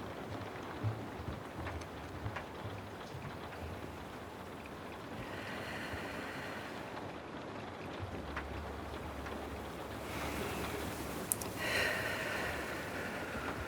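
Steady rain falling, with scattered small ticks and two spells of brighter hiss, about five and twelve seconds in.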